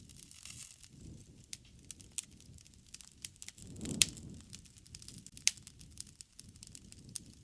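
Wood fire crackling, with irregular sharp pops over the low rumble of burning. The rumble swells about four seconds in, where the loudest pop comes.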